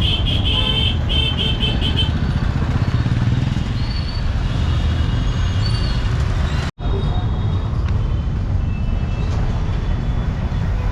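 Busy street traffic: engines running in a dense rumble with vehicle horns honking, including a rapid stuttering horn blast in the first two seconds. The sound drops out for an instant about two-thirds of the way through, then the traffic carries on.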